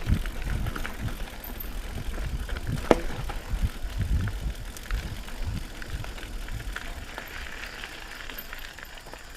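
Mountain bike rolling over a rough trail, with irregular low knocks and rattles as it jolts over bumps, and one sharp click about three seconds in.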